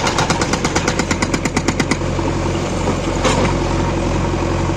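Hydraulic rock breaker on a JCB 3DX backhoe loader hammering stone in a rapid, even run of about ten blows a second, stopping about two seconds in, with the machine's diesel engine running steadily underneath.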